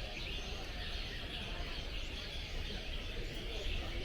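Many caged songbirds chirping and singing at once: a dense chorus of short, overlapping, high chirps over a steady low background rumble.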